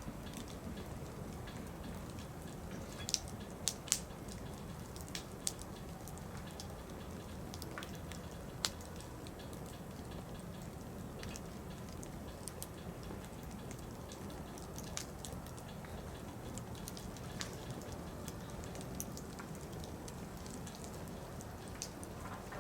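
Wood fire crackling: a soft, steady rush of burning firewood with scattered sharp pops and snaps, a cluster of louder pops about three to four seconds in and another single pop near nine seconds.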